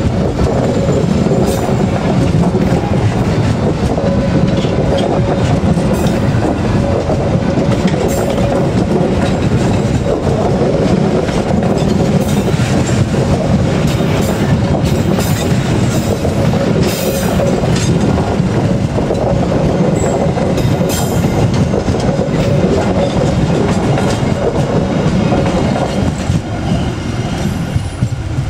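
Passenger train coaches rolling past close by: a steady rumble of steel wheels on rail with frequent clicks as the wheels cross rail joints, and a steady tone running under it. The noise eases near the end as the last coach goes by.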